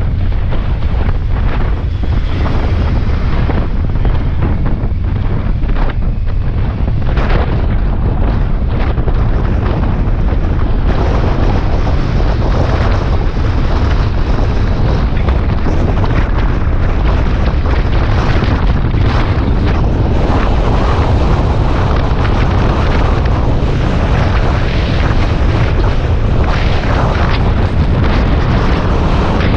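Suzuki Bandit 650S inline-four motorcycle running steadily on the road, largely buried under heavy wind buffeting on the microphone.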